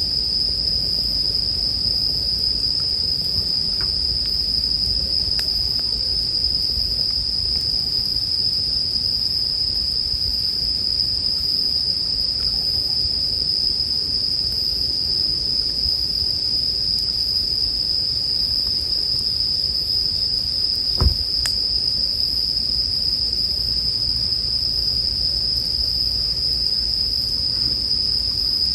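Japanese bell crickets (suzumushi) singing in a steady, unbroken high trill, over the low crackle of a campfire, with one sharp pop from the fire about two-thirds of the way through.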